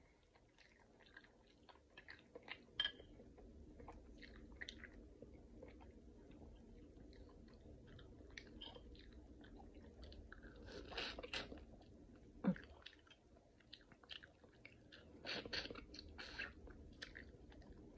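Chewing and wet mouth sounds of someone eating seafood boil: scattered soft smacks and clicks, with a louder cluster of bites about fifteen seconds in as a peeled shrimp is bitten.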